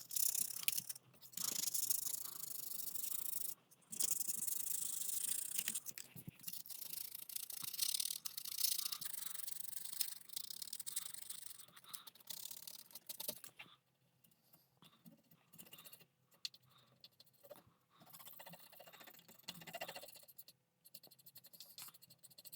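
Fine sandpaper rubbed by hand over a circuit board's pads, a dry, scratchy rasp to remove NiCad battery-leak corrosion. It runs in steady strokes for about the first half, then thins to occasional soft scratches.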